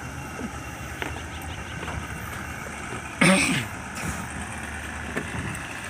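Speedboat engine running steadily, with one brief loud burst about three seconds in.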